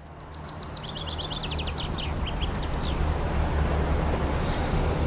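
Street ambience fading in: a steady low traffic rumble, with a small bird giving a quick run of short, high chirps in the first two or three seconds.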